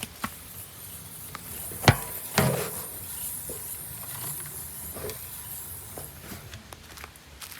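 A steady high-pitched hiss lasting about five seconds, with a few sharp knocks and clunks, the loudest two about two seconds in.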